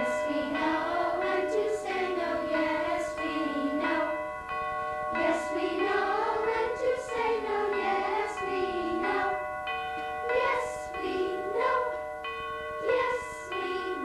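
Youth choir singing a melody over held accompaniment chords.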